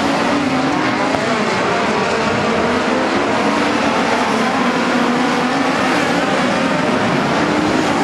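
Midget race cars running at race speed, several engines overlapping in a loud, steady drone whose pitches waver up and down.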